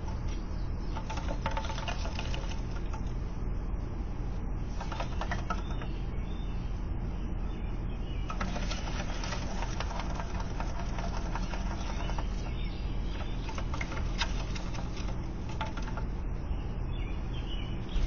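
A bird scrabbling on a ledge and rustling dry twigs, heard as several short bouts of rapid clicking and scratching, with flapping wings. A steady low hum runs underneath, as picked up by a porch camera's microphone.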